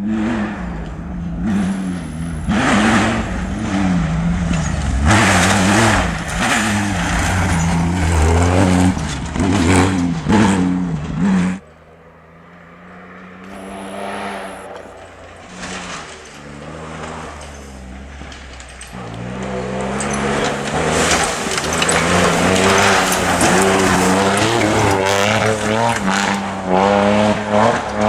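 Rally-raid cars' engines revving hard, pitch climbing and dropping with each gear change as they race along the stage. About twelve seconds in the sound cuts abruptly to a fainter car, which grows louder and revs hard again near the end.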